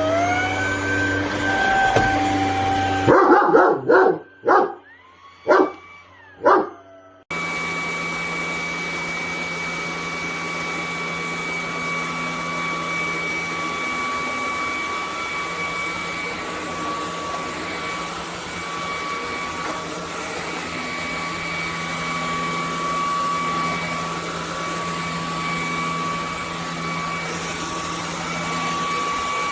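Cordless stick vacuum cleaner running, its motor whine rising in pitch in the first two seconds. Then about five sharp dog barks over near quiet, and then the vacuum motor runs steadily with a high whine.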